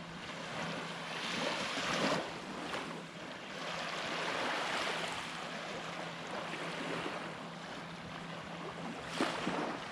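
Surf washing up the beach, swelling and easing in turn, with a sharper wash about nine seconds in.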